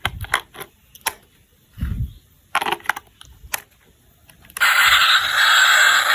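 Plastic toy parts knocked and clicked together while being handled. About four and a half seconds in, a loud, steady electronic buzzing from the toy train starts suddenly and keeps going.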